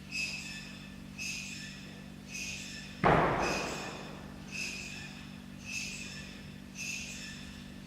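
A short high ringing tone that repeats about once a second, over a steady low hum. A single heavy thump about three seconds in is the loudest sound and tails off over about a second.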